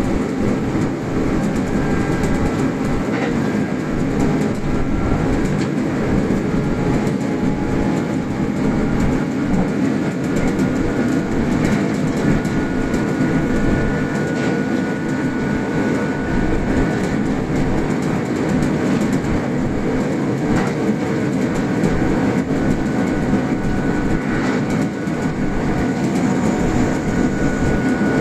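A Kintetsu express electric train running at speed, heard from inside its front car: a steady rumble of wheels on standard-gauge track, with scattered clicks and a faint high tone that comes and goes.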